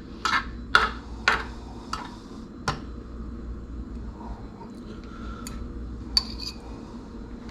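Metal fork scraping and tapping against a dish while spooning a honey mustard sauce: about five sharp strokes, roughly one every half second, then a few lighter clicks near the end.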